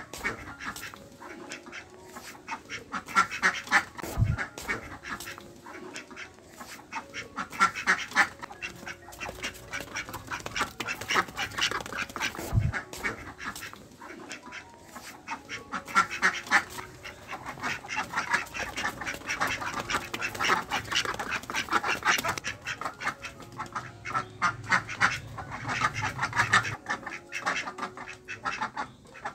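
Ducks quacking in rapid, chattering runs that swell and fade every few seconds.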